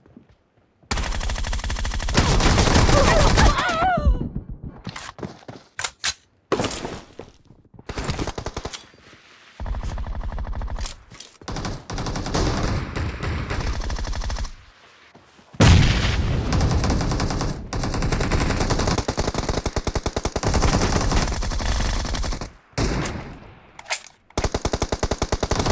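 Video game automatic gunfire: long bursts of rapid shots with short pauses between them, starting about a second in.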